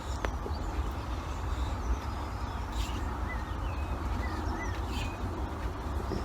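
Outdoor background: a steady low rumble with a few faint bird chirps in the middle and an odd faint click.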